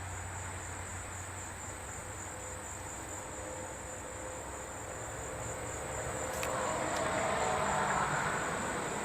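Steady high-pitched chorus of insects such as crickets trilling. In the second half, a louder rushing noise swells and then fades.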